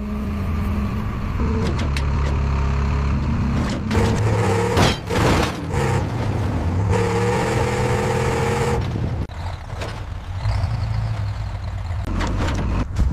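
A truck's engine running steadily, with a short hissing, clattering burst about five seconds in, and the running becoming lighter in the last few seconds.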